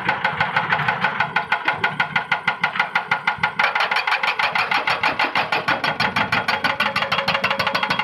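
Excavator's diesel engine running with a steady rapid clatter of about nine pulses a second. The tone shifts slightly about three and a half seconds in.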